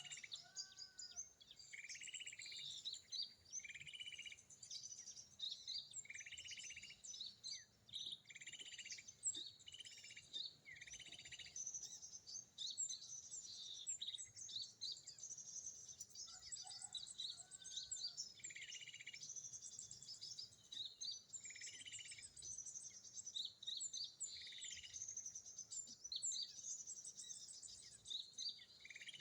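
Small birds chirping and trilling, high and rapid, in short phrases that repeat again and again.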